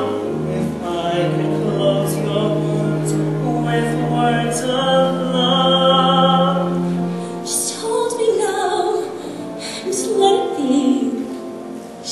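Musical-theatre duet singing over accompaniment, with sustained, held sung notes and a low held accompaniment line.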